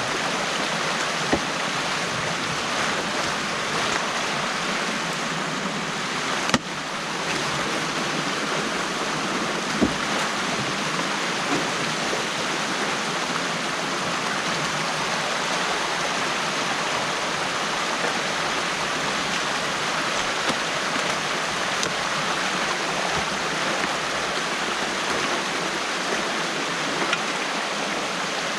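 Stream water rushing steadily, with a few faint knocks and one sharp click about six and a half seconds in.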